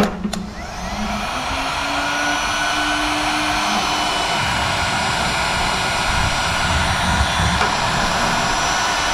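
Heat gun switched on with a click, its fan spinning up with a faint rising hum over the first few seconds, then blowing with a steady rushing hiss, used to dry the water out of a rinsed motorcycle fuel tank.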